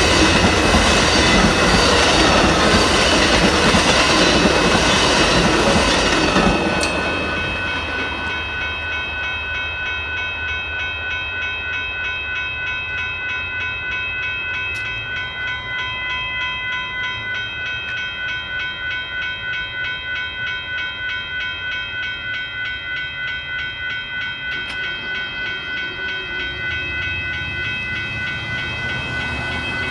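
For the first six seconds or so the Amtrak Texas Eagle passenger train runs through the grade crossing with wheel-on-rail noise. It then falls away, leaving the crossing's warning bell ringing steadily with an even repeated strike until the gates go up near the end.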